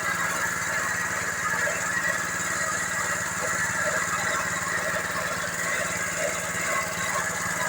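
Organic-waste grinding machine running steadily: a continuous engine-like drone with a steady hiss over it.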